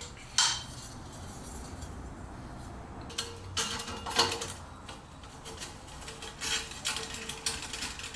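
Metal clinking and knocking from tools and exhaust parts being handled during a motorcycle exhaust install: scattered sharp clicks and clanks, busiest in the second half.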